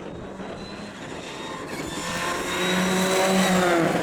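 Rally car approaching at speed, its engine growing steadily louder, with the pitch dropping as it passes near the end.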